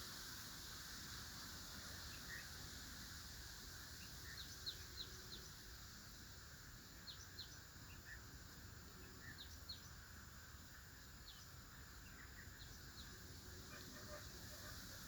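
Faint, short, high bird chirps in small clusters every second or two, over a steady outdoor background hiss.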